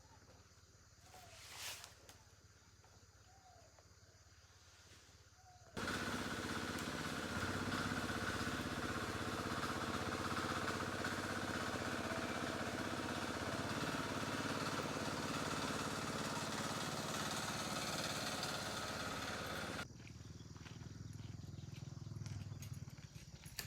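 A loud, steady mechanical noise starts suddenly about six seconds in and cuts off abruptly some fourteen seconds later, leaving a lower hum that swells toward the end.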